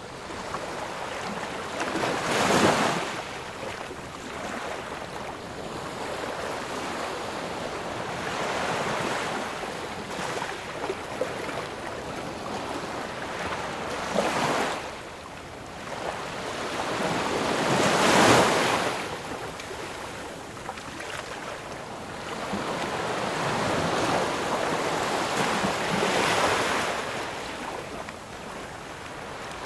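Ocean surf: waves breaking and washing in, rising and falling in slow swells, with the loudest breakers about two and a half seconds in, around fourteen and eighteen seconds in, and near the end.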